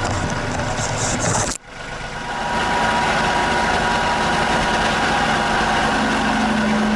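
Compact tractor engine running steadily, cutting out abruptly about one and a half seconds in and coming back up within a second.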